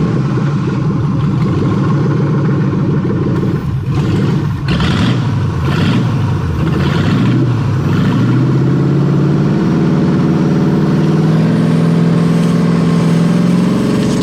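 Ford Crown Victoria V8 engine running while being fed Jell-O through a vacuum line. It runs unevenly with dips for the first several seconds, then about eight seconds in it revs up and holds a higher, steady speed.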